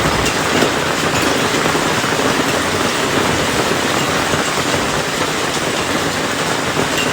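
Heavy rain and hail falling steadily: a dense, even hiss with faint scattered ticks of hits on surfaces.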